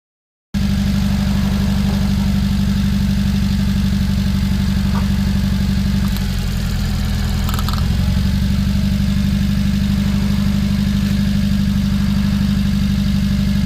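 Subaru Sambar's supercharged four-cylinder engine running steadily at idle while misfiring. The mechanic pins the misfire on cylinder No. 2, whose plug is not firing, and puts it down to the ignition coil.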